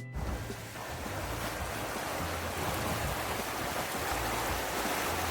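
Steady rush of water along a sailing catamaran's hulls as it sails at about 8 knots, mixed with wind on the microphone.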